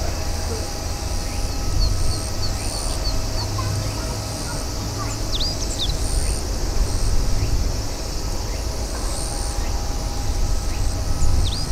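Birds chirping, with a few quick downward-sweeping calls, a short high note repeating about once a second, and a steady low rumble.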